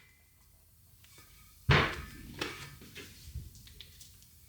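A single sharp metal-on-metal strike about a second and a half in, a hammer on a drift seating a bearing race in a Toyota front wheel hub, followed by a few faint taps and clinks.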